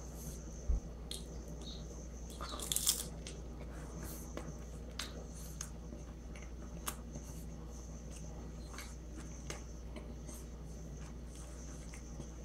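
A person chewing a mouthful of turkey roll close to the microphone: scattered small wet clicks and smacks, with a low thump under a second in and a louder crackly burst about three seconds in.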